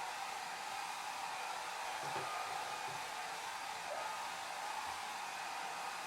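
Hair dryer blowing steadily, a continuous airy rush with a hum around its motor pitch, no change in speed.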